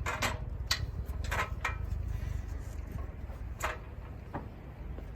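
A man climbing into a pickup's engine bay: a few scattered knocks and clunks over a steady low rumble.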